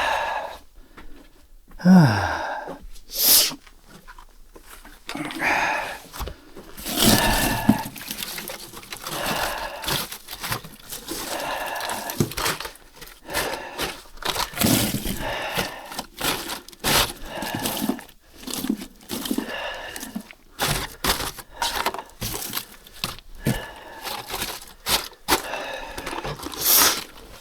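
Irregular handling noises: a run of short knocks, clacks and scraping or rustling sounds at uneven intervals, with a brief low falling sound about two seconds in.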